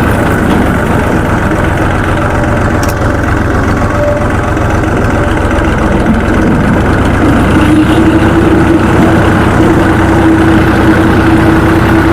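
1976 Fiat 480 tractor's three-cylinder diesel engine running steadily at idle after standing unused for 20 months; about seven and a half seconds in it picks up a little and runs slightly louder with a steadier hum.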